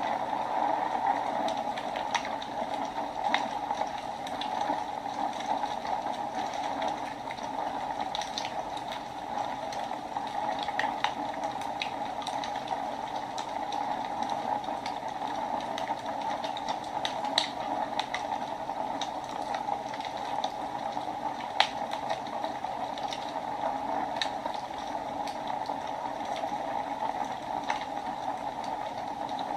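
Wood fire burning in a fireplace: a steady rushing hiss with irregular sharp crackles and pops, one louder pop about two-thirds of the way through.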